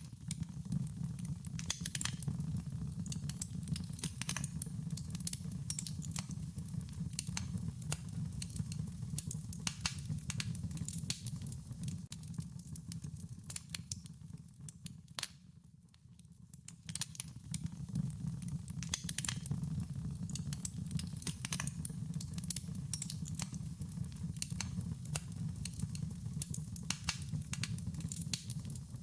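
Wood fire crackling: irregular sharp pops and snaps over a low steady rumble, easing off for a couple of seconds about halfway through.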